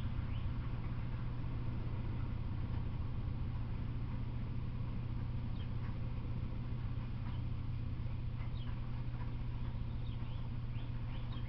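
Freight train of tank cars rolling past with a steady low rumble. Over it a bird chirps in quick runs of short descending notes, several times.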